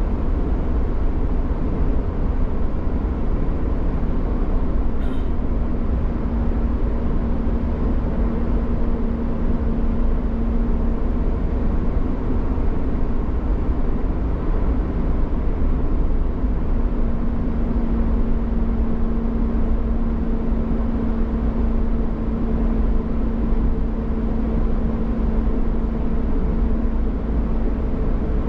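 A road vehicle driving at a steady speed: a constant engine hum over a low rumble of road noise.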